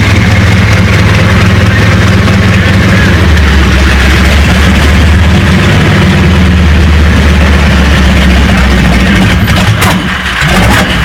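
Radial piston engine of an agricultural spraying aircraft running loud and steady at low speed; its pitch settles a little lower about three seconds in, and the sound briefly dips near the end.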